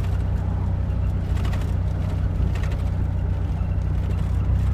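Chevy S-10 Blazer's 4.3-litre V6 and drivetrain heard from inside the cab while driving, a steady low drone.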